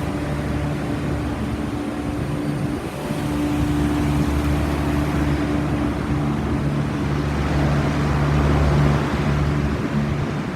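Several central air conditioner condensing units running together: a steady low compressor hum under the rushing air of their condenser fans, swelling a little about three seconds in.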